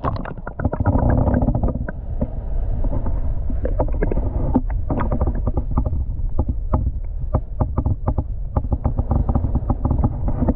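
Muffled underwater sound picked up by a GoPro held under shallow, clear river water: a steady low rumble of moving water with many quick clicks and taps, the high sounds cut off.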